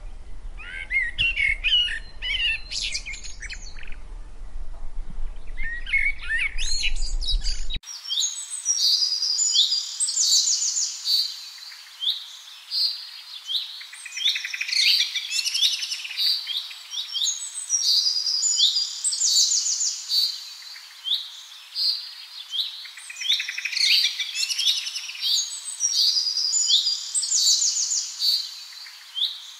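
Birdsong: small birds chirping and trilling in a dense chorus, with a burst of rapid trills coming roughly every two seconds. A low hum lies under the chirps for the first several seconds, then drops out.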